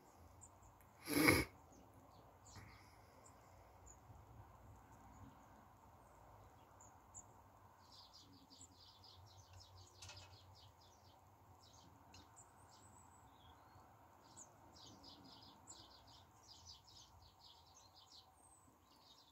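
A short loud bump about a second in, then faint high chirps of small garden birds, coming in quick runs from about eight seconds on.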